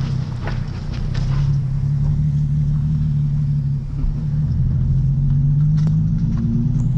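Nissan 370Z's 3.7-litre V6 idling through a loud aftermarket exhaust: a steady low rumble that dips briefly about four seconds in and rises slightly in pitch near the end.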